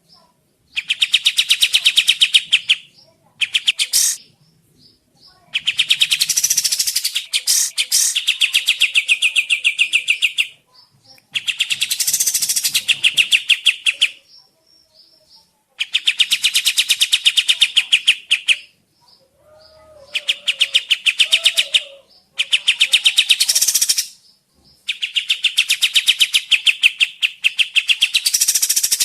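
Burung kapas tembak (a bulbul) chattering in repeated bursts of fast, dense, rattling calls, each a few seconds long, with short pauses between them. This is a lure call used to provoke other birds into answering.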